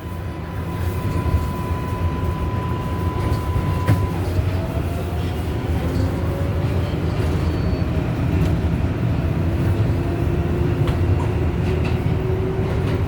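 R188 subway car on the 7 line running in the tunnel: a steady rumble of wheels on rail, with a high tone for the first few seconds. After that the motor whine rises slowly in pitch as the train gathers speed.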